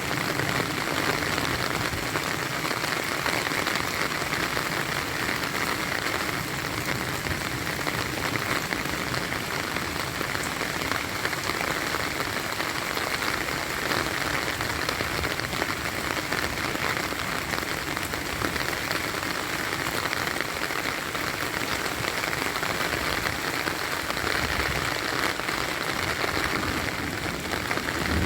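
Heavy rain falling steadily: a dense, even hiss of many drops hitting surfaces, with no let-up.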